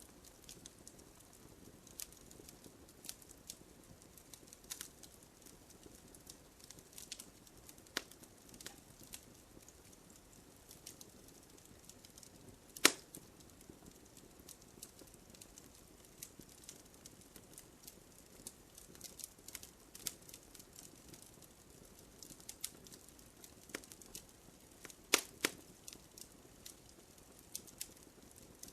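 Wood campfire crackling: scattered sharp pops and snaps over a low hiss, with a loud snap about 13 seconds in and two more close together near the end.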